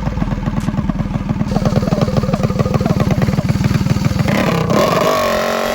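A mini bike's small single-cylinder engine running close by, with a steady, rapid firing beat; about four seconds in its note changes.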